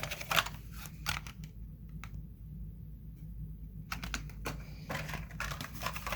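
Irregular clicks and taps of a small plastic die-cast toy car and its packaging being handled, sparse at first and coming thick and fast from about four seconds in.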